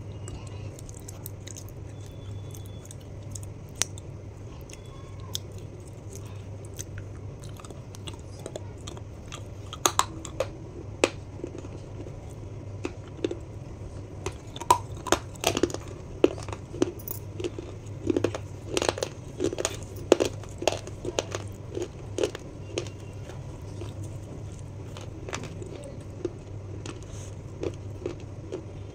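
Close-miked chewing of crunchy snacks: crisp crackles, thickest in the middle stretch and sparse at the start and end, over a steady low hum.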